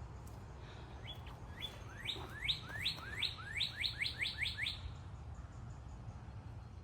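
A songbird singing one phrase of about a dozen quick, rising notes that come faster and faster, beginning about a second in and ending near the five-second mark.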